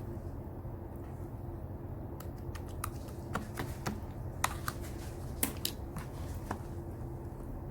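Slime being squeezed and poked by hand, giving a scattered run of small, sharp clicks and pops over a steady low hum, most of them in the middle of the stretch.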